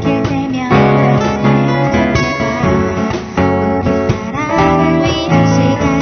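A small band playing a song, led by strummed acoustic guitar.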